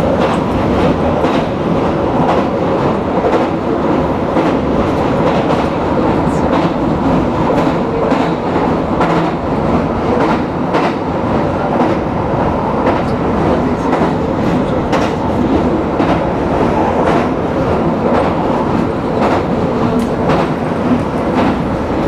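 Tozai Line commuter train running at speed: a steady rumble of wheels on rails, with irregular clicks as the wheels pass over rail joints.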